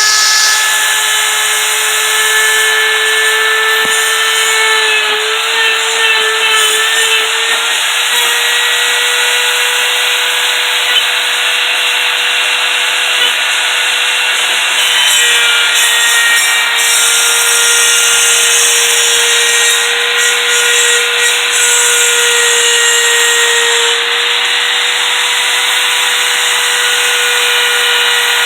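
CNC router spindle running and cutting: a steady, high whine that wavers slightly in pitch, over a rough cutting noise.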